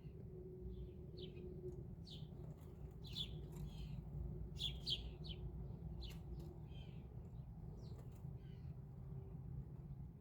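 Faint bird chirping: many short, high calls scattered throughout, busiest about three to five seconds in, over a steady low hum.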